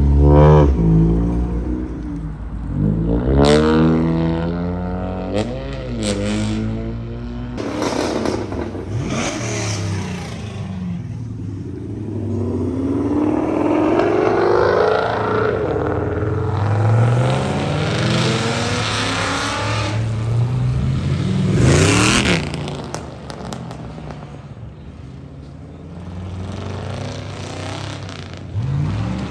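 Car engines revving and accelerating, over and over, their pitch climbing and dropping. There is a long climbing pull midway and a sharp, loud blip about 22 seconds in.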